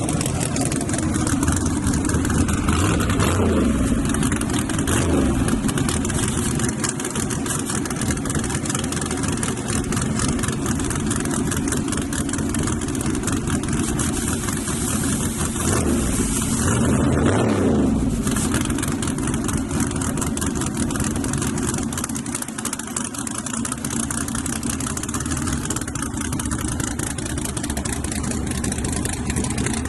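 Drag-racing truck engines running loudly and continuously, with pitch glides a few seconds in. Around seventeen seconds in, one engine's pitch rises to the loudest point and then falls away.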